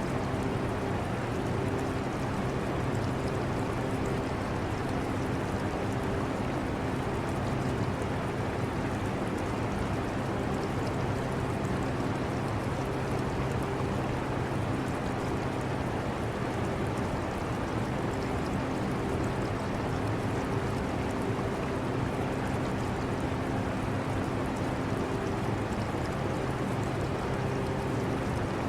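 Air conditioner running steadily: a constant rush of air with a low, even hum, mixed with the trickle and gurgle of aquarium water.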